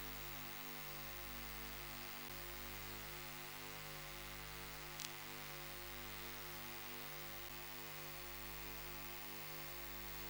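Faint steady hum with many even overtones, pulsing slowly, and a single short click about five seconds in.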